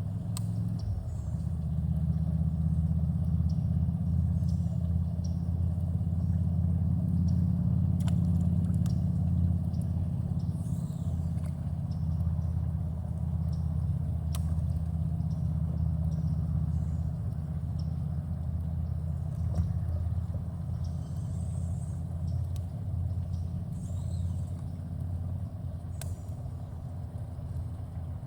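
A boat motor running steadily with a low, even hum that swells about a second in and eases off slightly near the end.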